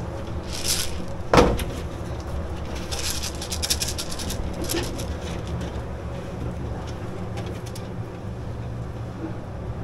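Steady low mechanical hum with scattered light clicks and one loud knock about a second and a half in.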